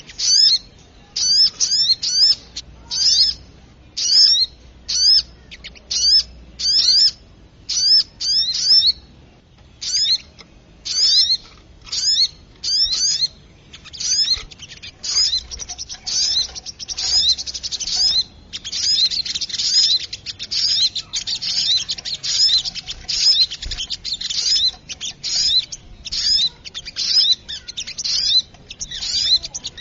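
Bird-lure recording of a sogok ontong, a small bird, giving sharp high chirps in quick clusters. The clusters come every second or so at first and run together into near-continuous, excited chattering about halfway through.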